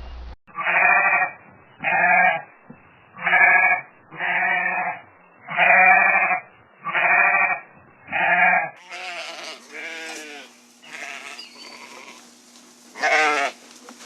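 An animal calling over and over: seven short pitched calls about a second apart, then a cut to more scattered calls, with one loud call near the end.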